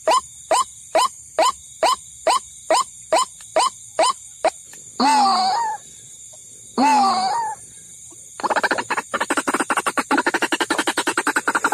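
White-breasted waterhen (ruak-ruak) calls played as a bird-lure recording: a run of short calls about two a second, then two longer drawn-out calls, then a fast pulsing chatter from about eight seconds in.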